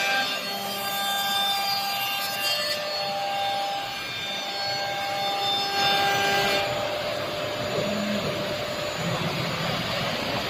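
CNC router at work: a steady spindle whine over the hiss of the bit cutting, changing character about three seconds in and again about six and a half seconds in.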